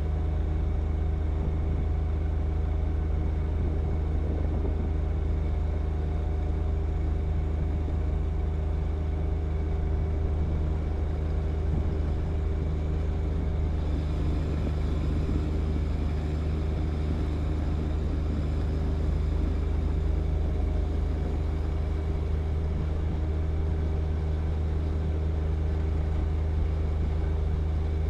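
John Deere 1025R compact tractor's three-cylinder diesel engine running steadily under load while the snow blower clears wet snow. A faint higher whine joins about halfway through.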